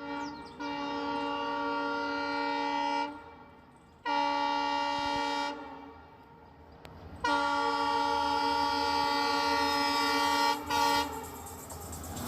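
Vande Bharat Express train sounding its horn: three long, steady blasts, the last the longest, then a brief toot near the end.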